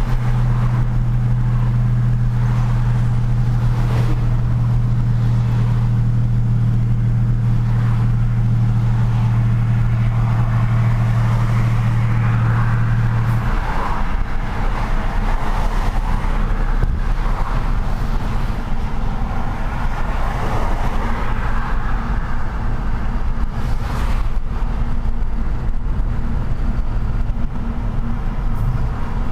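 Truck driving in city traffic: a steady low engine hum that cuts off about halfway through, over continuous road and traffic rumble.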